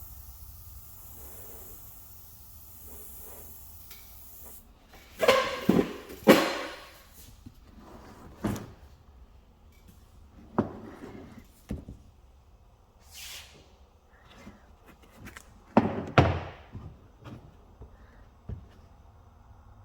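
A high hiss that dies away about four seconds in, then a series of knocks and clunks of things being handled and set down, the loudest a cluster about five to six and a half seconds in and another around sixteen seconds.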